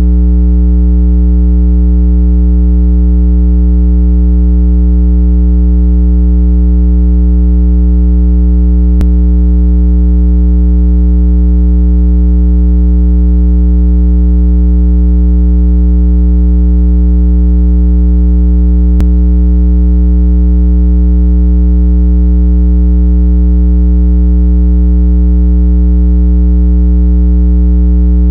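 Steady, loud, low synthesized water-eject tone, billed as 165 Hz, held without a break with a stack of overtones above it. It is meant to vibrate earbud and phone speakers so they push out trapped water. Faint ticks come about 9 and 19 seconds in.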